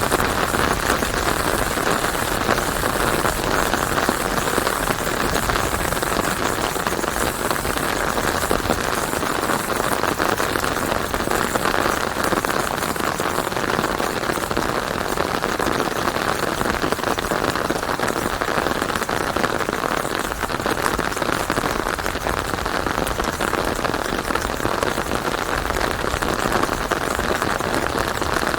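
Steady rain falling on leaves: a dense, even patter of countless drops.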